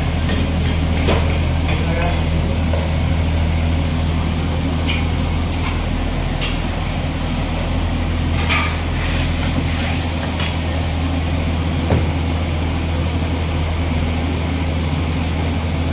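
Wok cooking: a metal spatula or ladle knocks and scrapes against the pan now and then, over a steady low mechanical hum.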